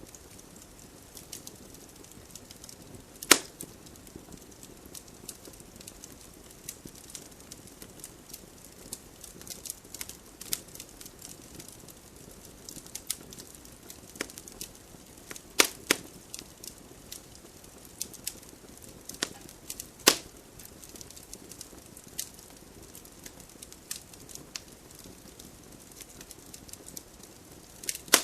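Wood campfire burning, crackling with irregular sharp pops over a soft steady hiss; the loudest pops come about 3, 16 and 20 seconds in.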